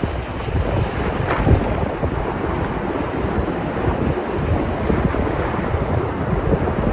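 Sea surf breaking and washing on the shore in a steady rushing wash, with wind buffeting the microphone in low rumbling gusts.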